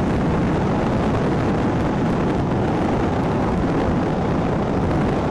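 Steady rush of wind buffeting an action camera's microphone on a Royal Enfield Himalayan motorcycle riding at speed, mixed with the bike's running engine and road noise.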